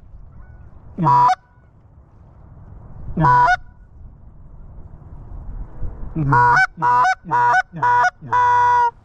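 Hunter's hand-blown Canada goose call honking to draw in passing geese. Two single honks, each jumping from a low note to a high one, then a quick run of five honks near the end, the last held longer.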